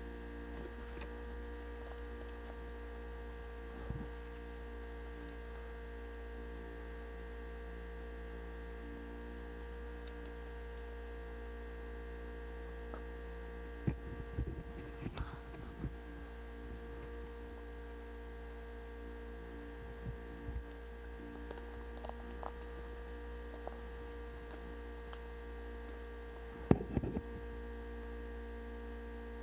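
Steady electrical hum made of several fixed tones, broken now and then by a few short sharp clicks and knocks. The loudest knock comes near the end.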